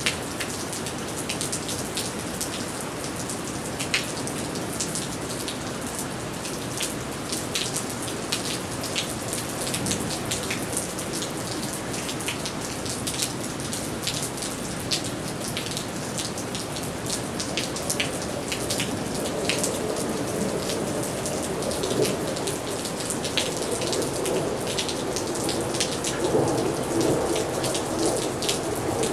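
Steady rain falling on a wet paved street and puddles, with many close raindrops tapping sharply over the hiss. A lower rushing noise swells over the last ten seconds.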